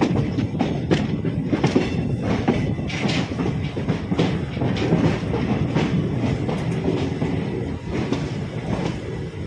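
Indian Railways express with ICF passenger coaches running along the track, heard from aboard the coach: a steady rumble with irregular clicks and knocks of the wheels over rail joints.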